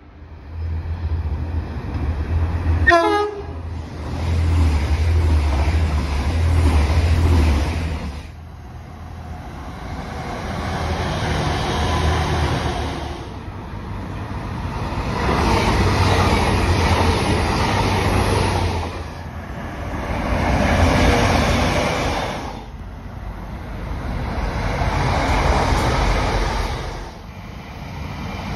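Passing trains. A CrossCountry diesel unit rumbles through and gives one brief horn blast about three seconds in. Then a TransPennine Express train runs past at speed, with rising and falling waves of wheel and rail noise.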